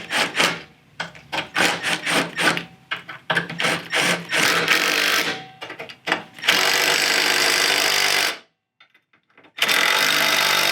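Clicks and rattles of metal parts being handled, then a power tool runs in three bursts of about one, two and one second, with a short silence before the last.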